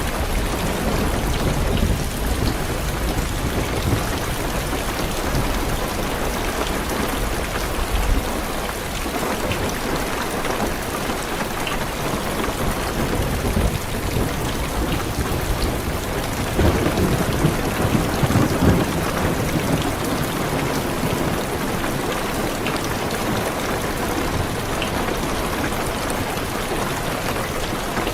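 Heavy rain hissing steadily on a car's roof and windows, with thunder rumbling low near the start and a louder roll of thunder a little past halfway.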